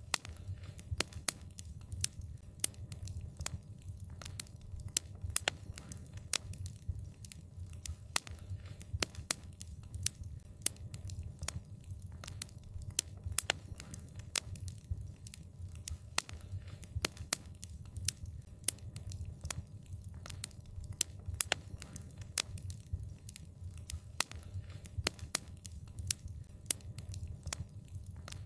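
Wood fire crackling: many sharp, irregular pops and snaps over a low, steady rumble of the burning.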